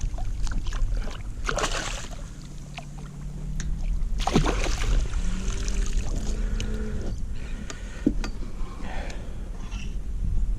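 Splashes and sharp knocks from handling a hooked spotted sea trout tangled in the line beside a kayak, with a steady low wind rumble on the microphone. A louder splash comes about a second and a half in and another about four seconds in.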